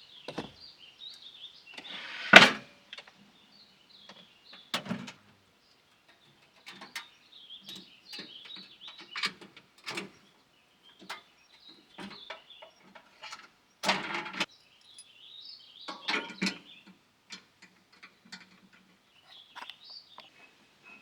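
Small birds chirping in the background, with irregular knocks and clatters of things being handled. The loudest knock comes about two seconds in, and two longer rattling clatters come around the middle and later.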